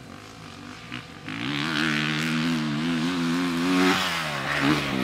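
Dirt bike engine on the throttle, its pitch wavering as the rider works the throttle, then revving higher near the end.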